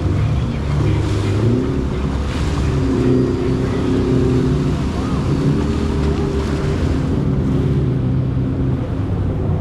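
Jet ski engine running on open water with water rushing past. Its pitch steps up and down a little every second or two.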